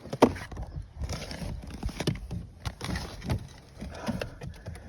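Footsteps at a walking pace, a knock about every half second to second, with rustling between them; the engine is not running.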